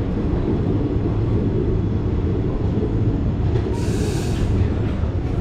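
Passenger train running along the track: a steady low rumble of wheels on rail, with a short burst of hiss about four seconds in.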